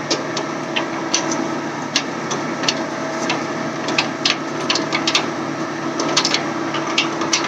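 Semi-trailer landing gear being hand-cranked: irregular clicks and knocks from the crank and its gearbox, over a steady engine hum.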